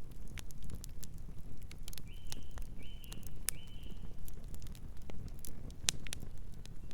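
Campfire crackling, with sharp irregular pops over a steady low rumble of the burning fire. About two seconds in, a nocturnal bird gives three short, even, high chirps in a row.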